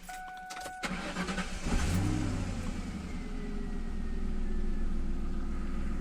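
A 2000 Ford Mustang's 4.6 V8 catches about two seconds in, revs briefly and settles into a steady idle whose pitch slowly drops. A short steady beep sounds at the very start. The hum from the air intake, caused by a dirty valve that has just been cleaned, is not heard.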